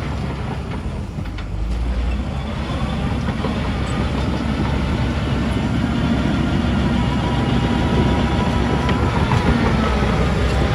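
Heavy diesel earthmoving machinery running steadily under load, getting louder after the first couple of seconds.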